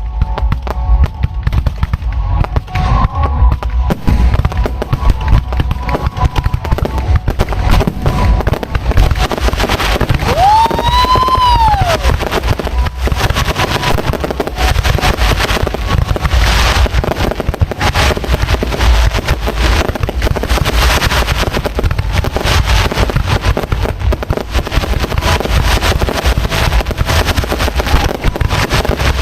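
Fireworks display going off close by: rapid, overlapping bangs and crackles with hardly a gap. About ten seconds in, a single whistle rises in pitch and falls away.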